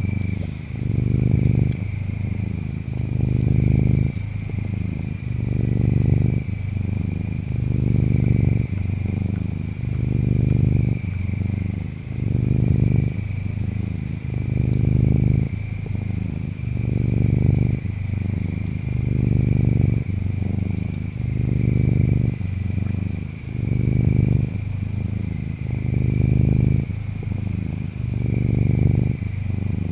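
Cat purring: a low rumble that swells and fades about every two seconds. Behind it, insects give a steady high trill and short, very high chirp bursts every few seconds.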